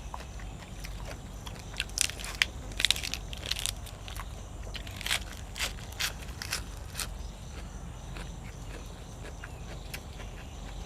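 Close-up eating sounds: a mouth chewing and crunching food, with a run of sharp, crisp bites from about two seconds in that thin out after about seven seconds.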